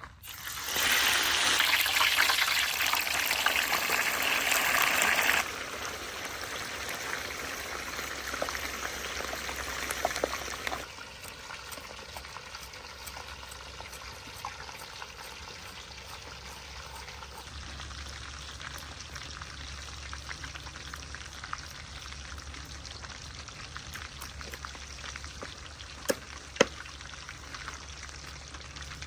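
Kitchen water running, loud at first, then dropping sharply in level about 5 seconds in and again about 11 seconds in to a quieter steady flow, with two sharp knocks near the end.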